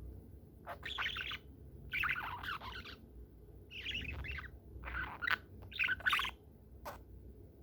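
Budgerigar chirping and chattering in about five short bursts, a second or so apart.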